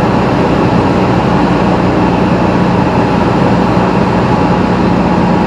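Piper Comanche 250's six-cylinder Lycoming engine and propeller droning steadily, heard inside the cockpit.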